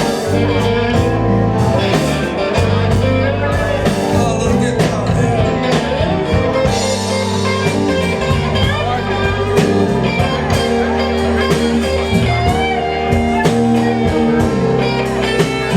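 Live blues band playing an instrumental passage, with guitar prominent over bass and drums.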